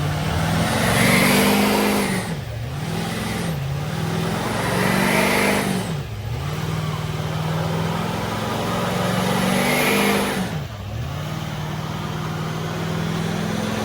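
A truck engine revving hard, its pitch climbing and falling back several times, with short sharp drops between the pulls.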